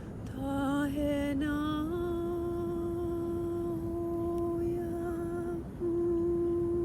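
A woman humming in long held notes: a short wavering phrase, then a long steady tone, a brief breath, and another long tone.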